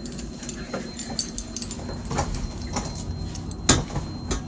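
Luggage being shifted and loaded: scattered knocks and clicks, with a louder thump about three and a half seconds in, over a steady low hum.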